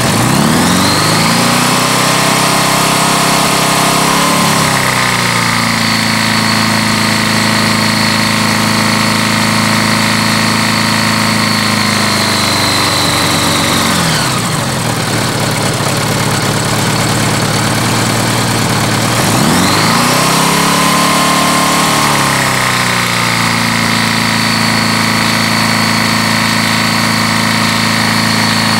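Honda GL1100 Gold Wing flat-four engine revved up and held at about 4000 rpm, dropping back to idle about halfway through, then revved up and held again. The connecting-rod bearings knock at high revs as oil pressure falls with the bike leaned on its side stand: the bearings are completely wiped out.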